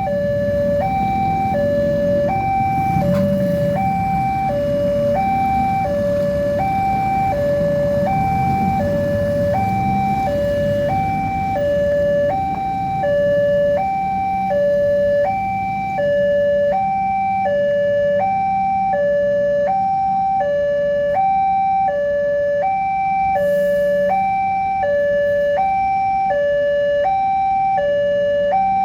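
Railway level-crossing warning alarm sounding a steady two-tone 'ting-tong', alternating high and low about once every second and a half, the signal that a train is approaching and the barriers are closing. A low engine rumble runs underneath, stronger in the first ten seconds.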